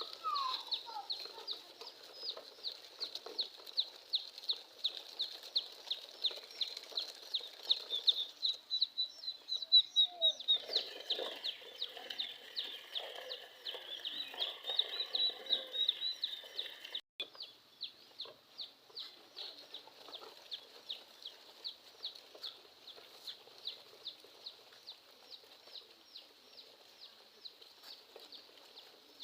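Young chicks peeping over and over, a quick even run of high cheeps, about three or four a second. Between about ten and seventeen seconds lower clucking-like sounds join in.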